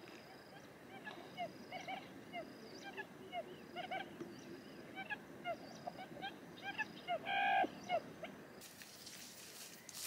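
Birds calling in the wild: many short chirps repeating, with one longer, louder call about seven seconds in. Near the end a rustling starts as someone walks through tall grass.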